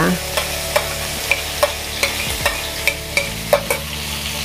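Coarsely blended shallots, garlic and chillies frying in hot oil in a pan: a steady sizzle with sharp crackles scattered through it.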